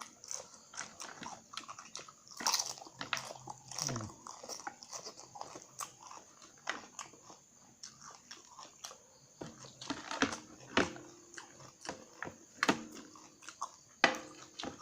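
Close-up crunching and chewing of crispy cassava chips, a quick irregular run of sharp crunches.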